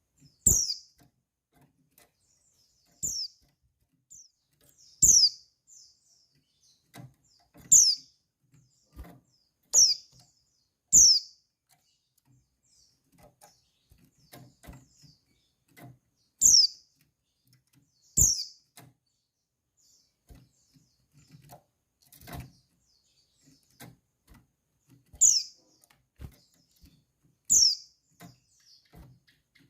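Female white-eye (pleci) giving short, sharp calls, each dropping quickly in pitch, about a dozen spaced unevenly a second or several apart, with faint clicks in between. This is the female's call that stirs male white-eyes to answer.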